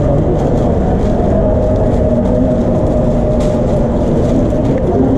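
Steady, loud rumble of a subway station, with a constant low hum sounding through it.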